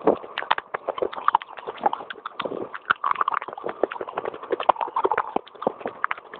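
Baked clay pot pieces being bitten and chewed: rapid, crisp crunching, many sharp cracks in quick, irregular succession.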